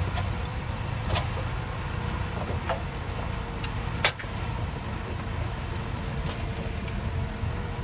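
Heavy diesel earthmoving machinery running steadily with a low rumble, with a few sharp knocks, the loudest about four seconds in.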